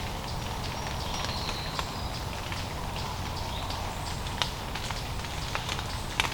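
Irregular sharp ticks and crackles over a steady low background hiss, with a few faint, short, high chirps between about one and two seconds in.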